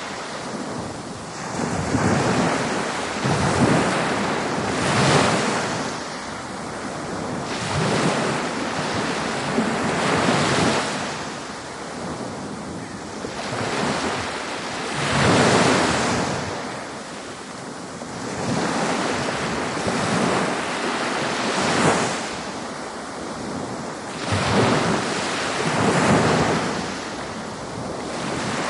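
Ocean waves breaking on a beach, the surf swelling and falling away every few seconds, with some wind noise on the microphone.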